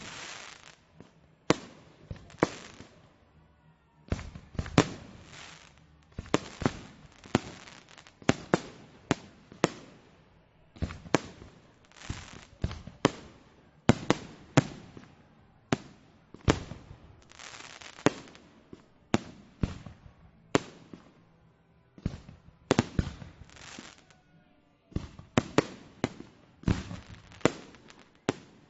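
Fireworks display: a near-constant run of sharp bangs, often several in quick succession, each trailing off into crackle, with brief lulls about four seconds in and again about twenty-two seconds in.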